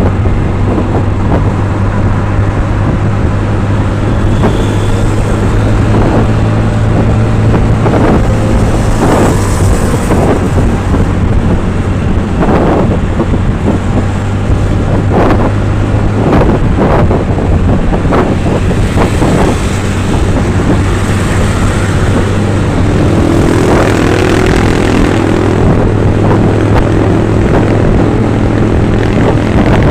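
Vehicle engine running with a steady low drone, as on the road, with short passing noises on top around the middle.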